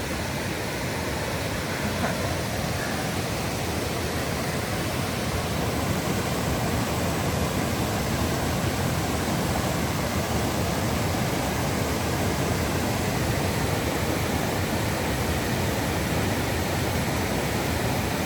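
Steady rush of water from cascading waterfalls, growing a little louder about six seconds in.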